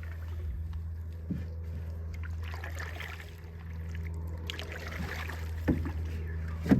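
Canoe on the water: swishes of water and a few short knocks against the hull, the sharpest near the end, over a steady low hum.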